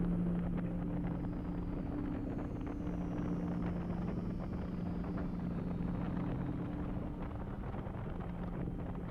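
Kawasaki Vulcan motorcycle engine running steadily under way, with wind noise over it.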